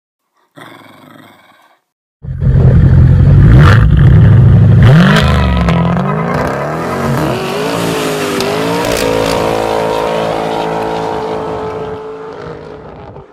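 Dodge Challenger R/T Scat Pack's 392 HEMI V8 through a Kinney's Tunnel Ram performance exhaust, firing up loudly about two seconds in after a brief faint noise. The revs rise and fall, then settle into a steady idle that slowly quietens.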